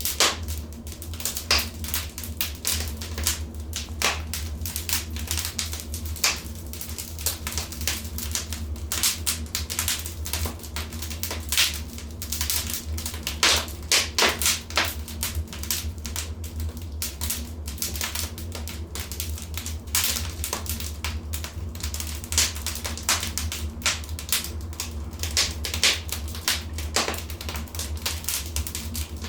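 Wood fire crackling in a fireplace: quick, irregular pops and snaps, several a second, over a steady low rumble.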